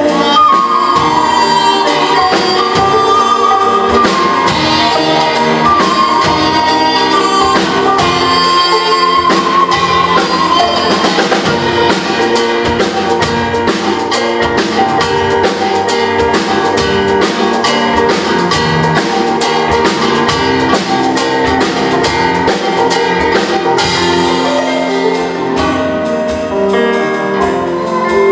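Fusion gugak ensemble playing live: traditional Korean instruments mixed with Western ones, a wavering melody line over a dense accompaniment and steady percussion.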